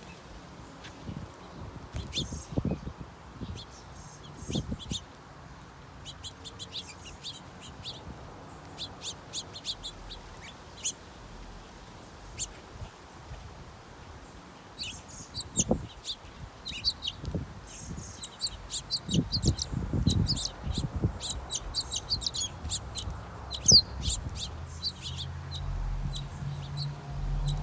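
Birds at a bird feeder chirping: many short, high chirps that come thickest in the second half. Several low thumps come in between.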